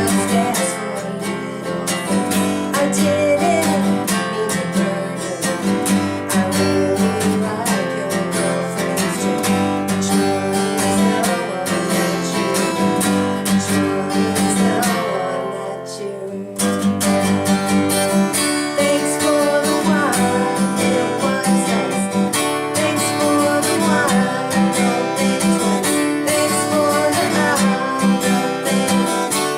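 Acoustic guitar music, strummed and picked, that runs on steadily and briefly drops away about halfway through before picking up again.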